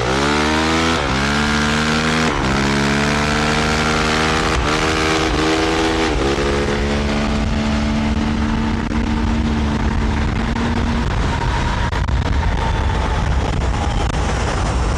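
Honda CRF450R dirt bike's single-cylinder four-stroke engine accelerating hard uphill, its pitch climbing and then dropping with each of several upshifts in the first six seconds, then holding a steady note until it fades out about eleven seconds in. A steady rush of wind noise runs underneath.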